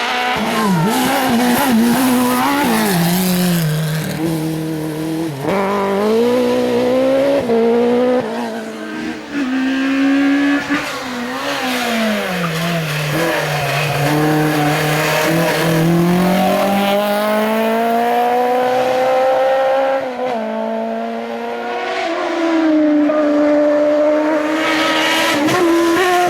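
Competition car's engine revving hard through a slalom run, the pitch climbing in long sweeps and dropping sharply several times as it shifts down or brakes.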